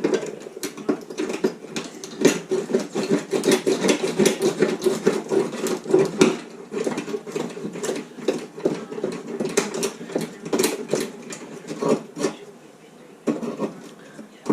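Quick, irregular metallic clinks and taps of rusted sheet steel at the bottom of a car door being worked and pulled loose.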